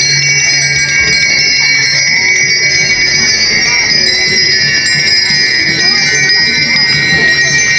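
Continuous metallic jingling and ringing, like many bells or small metal percussion instruments playing together as ceremonial music, dense and unbroken.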